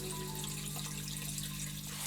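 Running water trickling steadily, with a low held music note under it.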